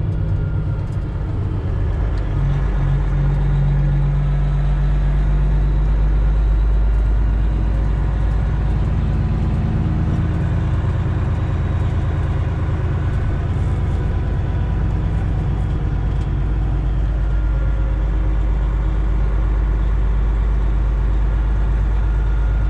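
Straight-piped Detroit Diesel Series 60 in a Freightliner Classic XL running steadily, a deep, even drone.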